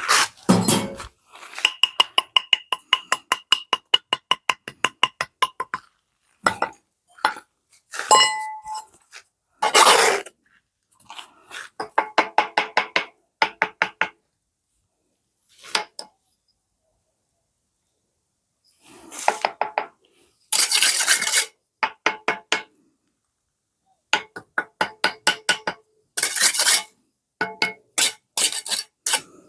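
Runs of quick, sharp strikes, about four to five a second, broken by short pauses. During the first run the strikes carry a metallic ring.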